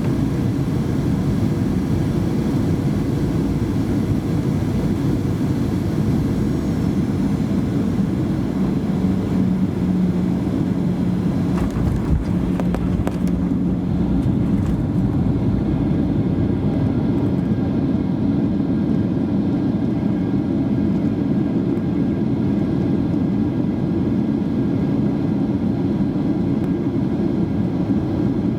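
Cabin noise inside a Boeing 737-800 during the landing approach: the steady rush of the CFM56 engines and airflow. A steady hum comes in about eight seconds in and fades a few seconds later, and a few short knocks sound around twelve seconds in.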